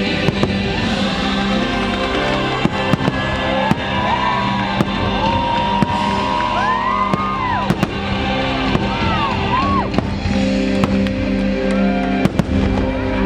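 Fireworks going off in a rapid, irregular series of sharp bangs and cracks over loud show music, with gliding whistle-like tones in between.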